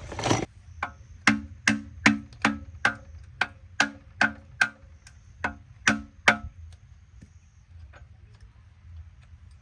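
Metal striking metal: about fourteen sharp, ringing taps in a steady run of roughly two and a half a second, stopping about six seconds in.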